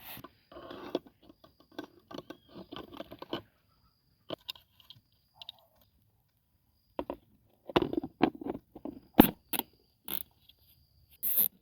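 Hands fitting an oiled foam air filter and its housing parts on a Honda XR200R: irregular rustling, scraping and small clicks, with a few sharper knocks in the second half.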